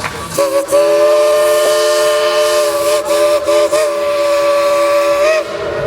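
Steam locomotive's chime whistle sounding one long, loud chord of several notes for about five seconds, with a few brief dips, over a hiss of steam.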